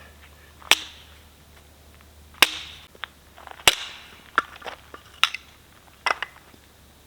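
Firewood being chopped: a series of sharp, irregular chopping strikes about a second apart, the three hardest ones in the first four seconds and lighter ones after.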